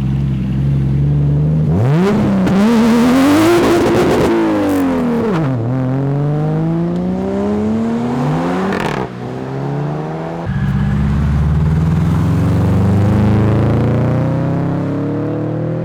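Car engines at a car meet: one idles, then revs hard with the pitch swinging up and down and pulls away, rising through the gears with a shift about nine seconds in. Another engine then takes over, its pitch climbing slowly as it accelerates.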